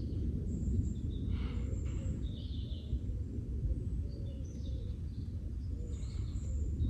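A few short bird chirps at intervals over a steady low rumble, likely wind or a distant storm.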